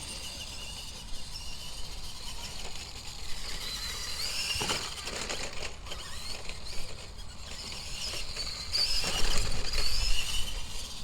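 Electric RC monster truck driving: its motor whine rises and falls with the throttle, with a few knocks as the truck bumps and crushes things, the loudest about halfway through and near the end.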